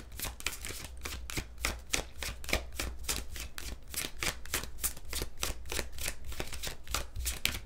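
A tarot deck being shuffled by hand: a steady run of quick card slaps and flicks, several a second, without a break.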